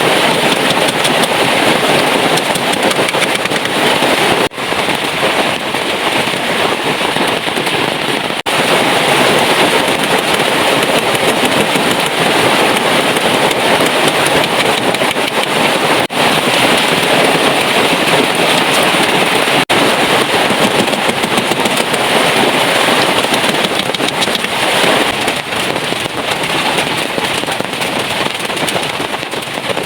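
Heavy rain falling steadily, a loud, dense crackling patter of drops, cut off for an instant four times.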